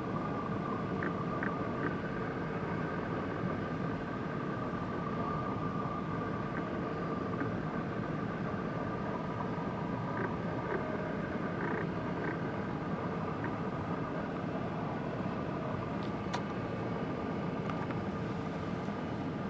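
Steady mechanical drone with a constant whine from a running engine, even in level throughout, with a few faint clicks.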